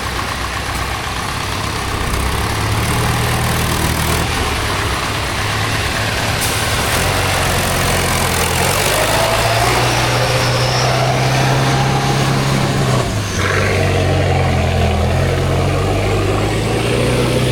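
Heavy off-road trial truck engine working hard under load, its pitch stepping up and down, with a brief drop about thirteen seconds in, over a steady rushing noise.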